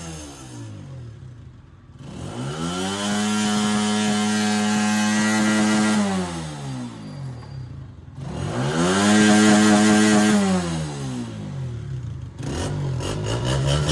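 Motorcycle engine being revved three times. Each time the pitch climbs, holds for a few seconds, then falls back toward idle; the last rev near the end is short.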